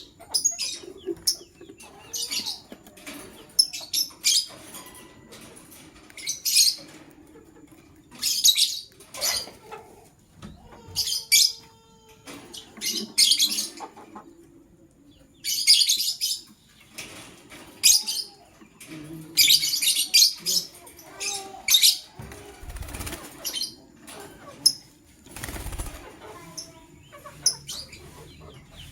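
Lovebirds chirping: short, shrill, harsh calls in quick clusters, repeated about once a second, with two dull thumps in the second half.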